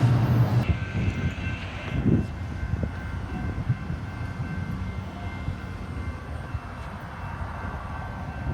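Train running with a steady low rumble and a faint thin whine above it. A louder sound drops away under a second in.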